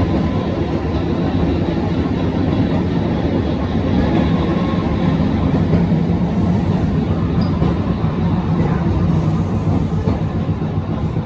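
Manyosen streetcar running along its rails, heard from on board: a steady low rumble of traction motors and wheels.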